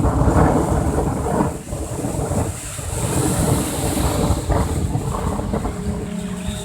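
Wind buffeting the microphone with water surging and splashing around a boat in heavy seas, a loud rough rumble that rises and falls in surges.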